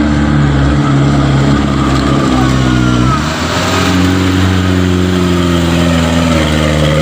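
Diesel truck engine held at high revs under load, straining the way a stuck truck does in mud. Its pitch drops briefly about three seconds in, then it settles and holds steady again.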